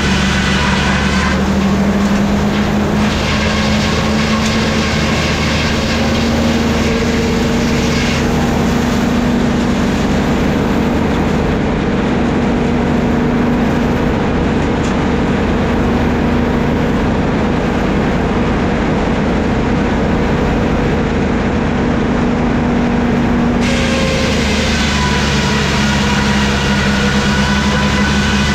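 Sawmill machinery running with a steady droning hum and a high whine. From about a second in until about 23 seconds, the whine drops away under a rougher, noisier sound, then returns.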